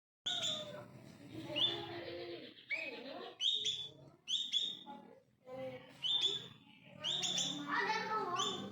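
Songbird chirping: short, high, sharp chirps repeated every second or so, sometimes two in quick succession.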